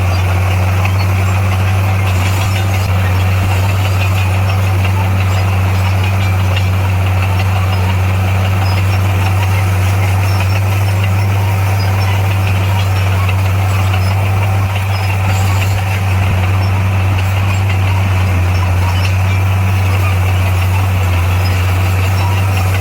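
Heavy diesel earthmoving machine engine running steadily at constant speed, a low unchanging drone.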